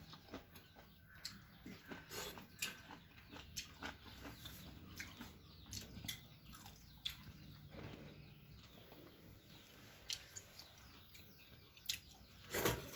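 A person eating close to the microphone: faint chewing and biting, with scattered small clicks and crunches and a few louder ones near the end.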